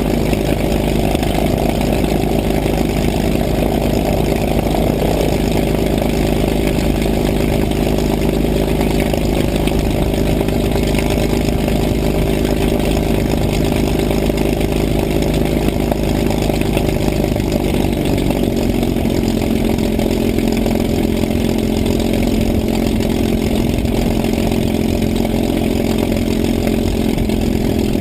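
P-51 Mustang's piston engine running steadily at low power, with a slight drop in engine speed about two-thirds of the way through.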